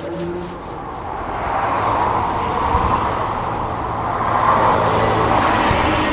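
Road traffic going by: a steady rushing noise that swells over the first couple of seconds and then holds.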